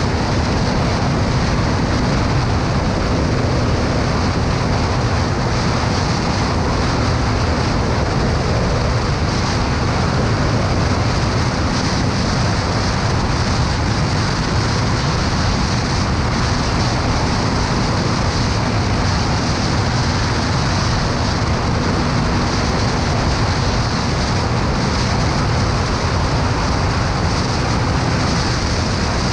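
Steady noise of a motorcycle ride at constant speed: wind rushing over the microphone, with a steady engine hum underneath.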